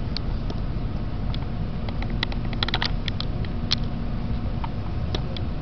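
Tokaido Shinkansen Kodama train running at speed, heard inside the passenger cabin: a steady low rumble with a faint hum, dotted with many light clicks and ticks.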